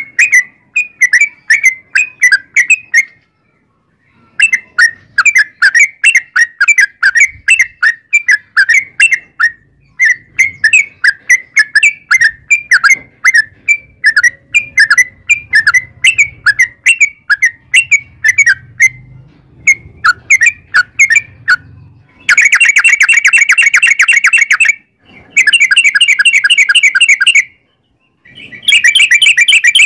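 Yellow-vented bulbul (trucukan) in full song: a fast string of bubbly chirps, then, from about two-thirds in, three long unbroken rapid trills with short pauses between them. These are the long 'ropel' phrases used as a lure to set other trucuk birds singing.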